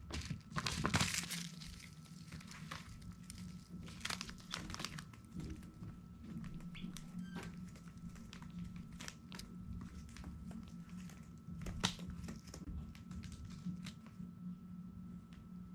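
Rustling, crinkling and scattered sharp taps and clicks, like small birds scratching and moving about in loose bedding, over a steady low hum. There are one or two faint short peeps but no steady chirping.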